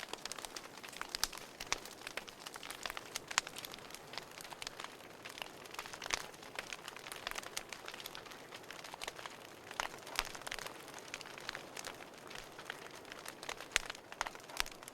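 Burning firewood crackling: irregular sharp pops and snaps over a steady soft hiss of flames.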